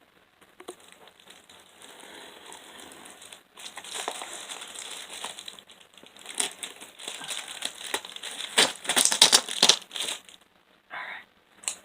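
Parcel packaging crinkling and rustling as it is handled and opened, in irregular strokes that grow denser and loudest about nine seconds in, then stop.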